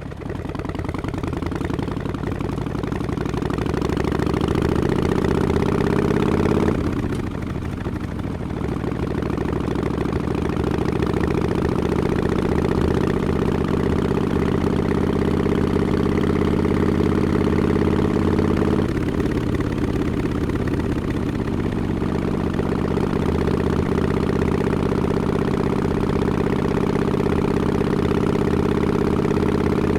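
Harley-Davidson Forty-Eight's 1200 cc air-cooled V-twin exhaust through Vance & Hines Short Shots pipes with quiet baffles, pulling under way. The pitch climbs for several seconds and falls at an upshift about seven seconds in. It climbs again, shifts once more a little after halfway, then holds a steady cruising note.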